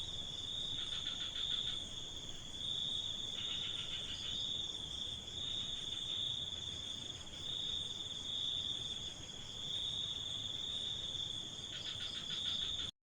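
Crickets trilling steadily at night, a continuous high, gently pulsing chirr. A second, lower rasping insect call breaks in three times, and the sound cuts off suddenly at the very end.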